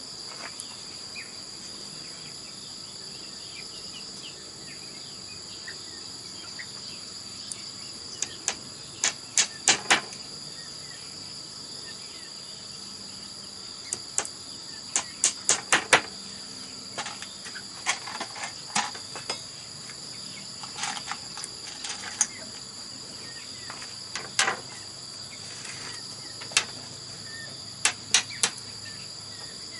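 Steady high-pitched insect chorus with groups of sharp knocks, three to five quick strikes at a time, coming every few seconds from about a quarter of the way in. The knocks are the loudest sounds.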